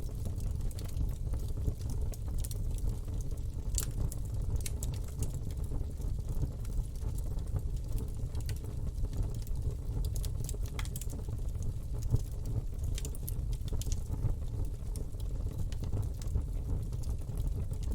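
Campfire burning, with a steady low rumble of the flames and irregular sharp crackles and pops from the burning wood.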